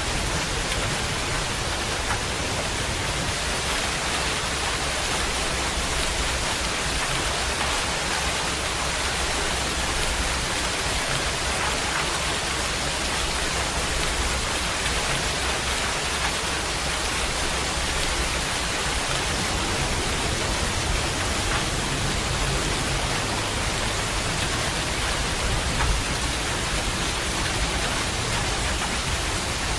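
Steady heavy rain, a dense even hiss of falling rain with some low rumble underneath.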